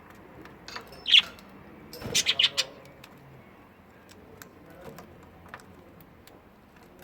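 Budgerigar chirping: one sharp chirp about a second in, then a quick run of four or five short chirps about two seconds in, with faint scattered clicks.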